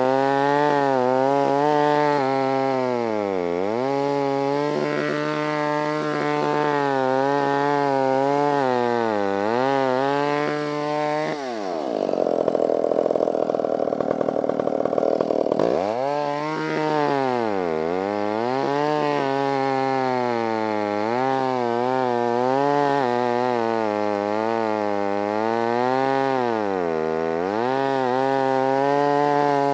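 Stihl 056 two-stroke chainsaw cutting through a dead elm trunk. Its engine pitch sags and recovers every couple of seconds as the chain loads up in the wood. About halfway through, the engine note drops away for a few seconds into a rougher, noisier sound, then climbs back.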